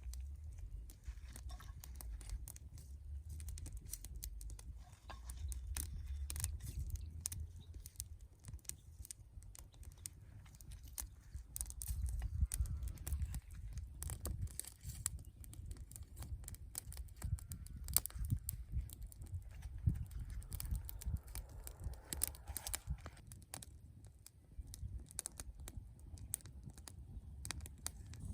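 Small wood campfire crackling as dry tinder and sticks catch, with many irregular sharp pops and snaps over a low rumble.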